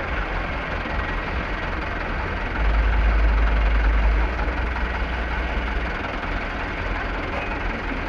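Heavy truck engine idling with a low rumble that gets louder about two and a half seconds in and drops back about a second and a half later.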